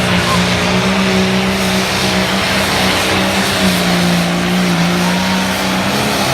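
Limited pro stock pulling tractor's diesel engine running loud and steady at high revs under load during a pull. Its pitch sags a little about four seconds in and comes back up near the end.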